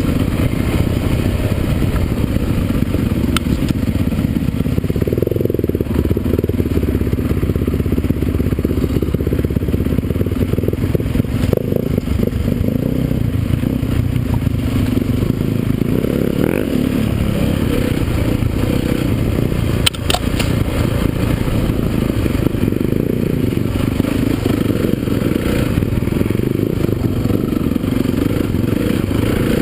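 Motocross motorcycles running on the track, a dense steady rumble with engines swelling and falling as they rev.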